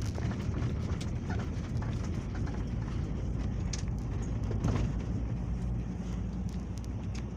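Peugeot Boxer minibus driving, heard from inside the passenger cabin: a steady low engine and road rumble with tyre noise and small rattles and clicks.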